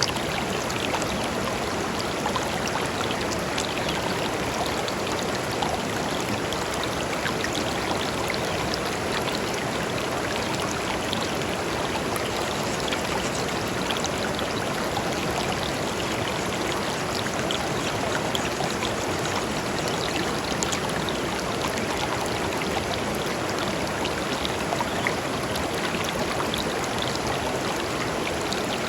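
Shallow river flowing over and between stones, a steady rushing and babbling with small splashes scattered throughout.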